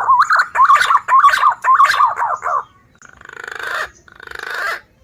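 Green pigeon (punai) calls used as a bird lure: a run of loud, wavering whistled notes, followed by two harsher rasping calls near the end.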